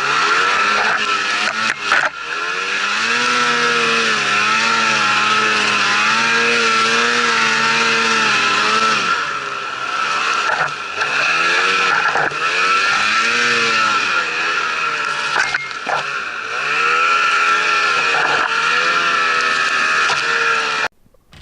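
Snowmobile engine running hard, its pitch rising and falling again and again as the throttle is worked, over a steady rushing noise; the sound cuts off abruptly near the end.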